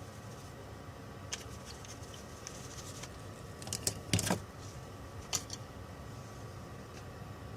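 A few light clicks and taps, with a small cluster in the middle, over a faint steady hum.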